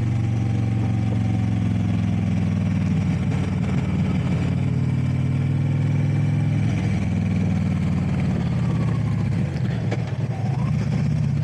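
Harley-Davidson motorcycle's V-twin engine running steadily under way, at an even cruising pace.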